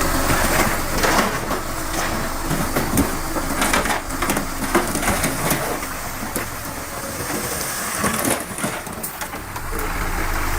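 Heavy earthmoving machinery working soil and rock: dense, irregular crunching and crackling with many sharp clicks, over a faint low engine hum.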